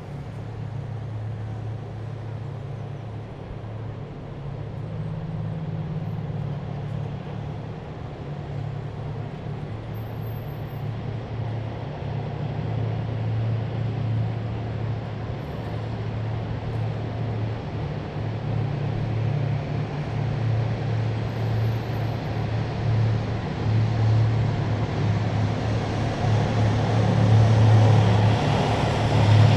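A column of heavy military vehicles approaching on a city road: a low, steady engine drone that grows gradually louder, loudest near the end.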